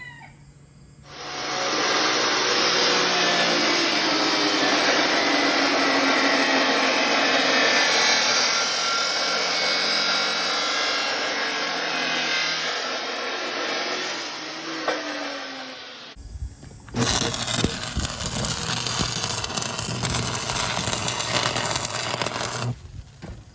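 A power tool cutting metal steadily for about fifteen seconds, its motor pitch sagging slowly, then stopping. After a short pause a different, rougher tool noise runs for about six seconds.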